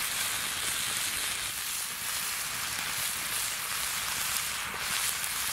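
Steak and onions sizzling steadily in a frying pan over a campfire, an even hiss.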